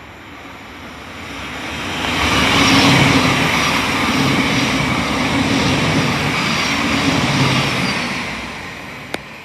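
Class 700 electric multiple unit passing through the station, with wheel and rail noise and a low steady hum. The sound swells over about two seconds, holds for about five, then fades away.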